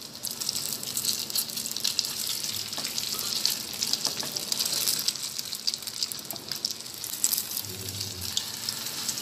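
Egg omelette frying in hot oil in a pan: a steady sizzle with dense fine crackling.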